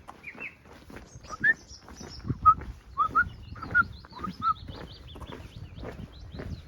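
A bird calling in a run of short, rising notes about twice a second, agitated and worked up, with fainter high chirps of other birds; soft footfalls of walking underneath.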